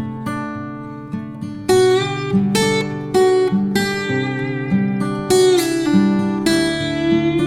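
Acoustic guitar music: plucked and strummed notes over a steady bass line, growing louder and fuller about two seconds in.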